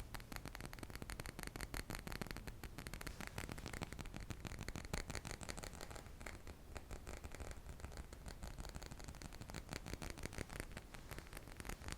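ASMR triggers: a steady stream of quick, soft tapping and scratching sounds, many small clicks a second.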